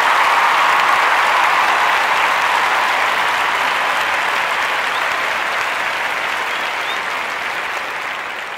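Crowd applauding, a dense steady clapping that slowly dies down toward the end.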